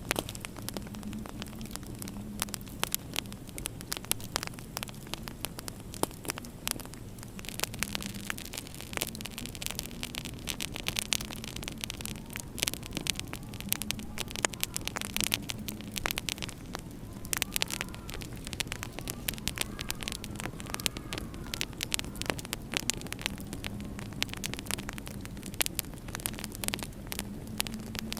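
Wood fire in a fireplace crackling, with many irregular pops and snaps over a steady low hum. Faint rising-and-falling whistles come and go in the middle.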